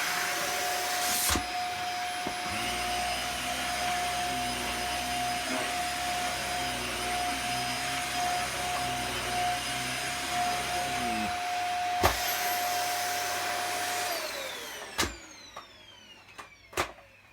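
Dyson DC50 upright vacuum cleaner running steadily with a high motor whine, tested after being cleaned out of plaster dust and working well. A heavier low hum joins for several seconds in the middle; near the end it is switched off with a click and the whine falls away as the motor spins down.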